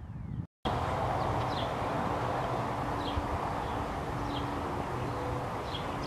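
A bird giving a short high chirp about every second and a half over a steady outdoor rushing noise with a faint low hum. The sound drops out briefly about half a second in.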